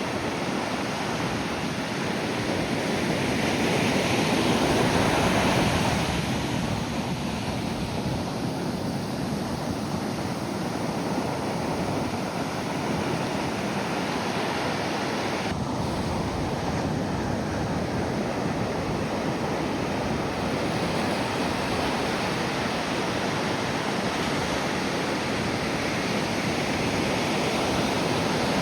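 Ocean surf breaking and washing up the beach in a steady rush, swelling louder about four seconds in and again near the end.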